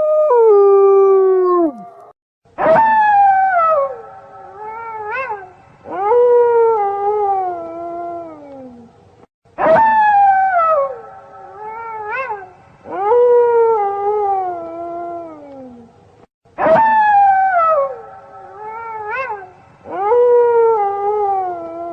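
Wolf howling: long howls that slide down in pitch, with a short rising-and-falling yelp between them. The same sequence repeats about every seven seconds, as a loop.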